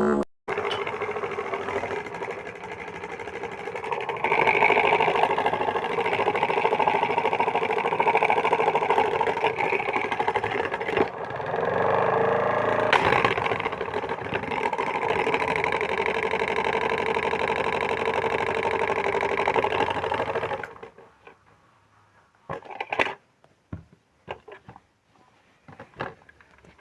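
Washing machine drum running with a fast, dense mechanical rattle as the drum shakes hard. It cuts off about 21 seconds in, leaving a few faint clicks.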